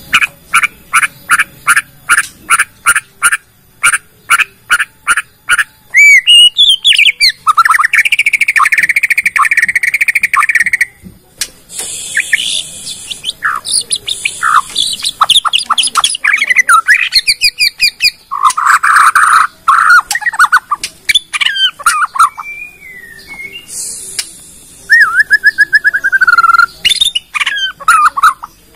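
Bornean white-rumped shama singing a long, varied song. It opens with a run of short repeated notes, about three a second, then moves through whistles, trills and harsh rasping phrases. This shows off the bird's full repertoire, including imitated calls.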